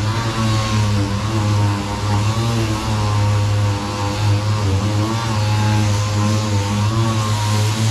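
A motor running steadily with a low hum, its pitch wavering slightly, over a noisy hiss.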